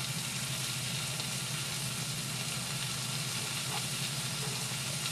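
Steady sizzle of sliced onions frying in olive oil in a pan, with a low hum underneath. A few faint knife taps on a wooden cutting board come as dates are cut.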